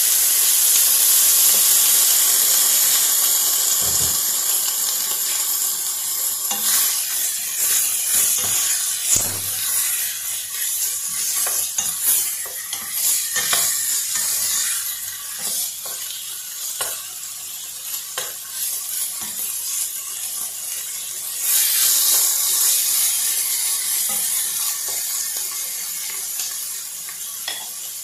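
Chicken pieces and sliced onion frying in a non-stick pan, sizzling steadily, with a wooden spoon scraping and tapping against the pan as it stirs from about six seconds in. The sizzle grows louder again about three-quarters of the way through.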